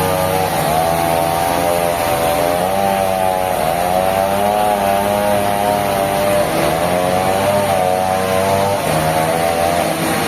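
Sawmill saw machinery running, its pitch dipping and rising every second or two as the blade takes and sheds load in the log.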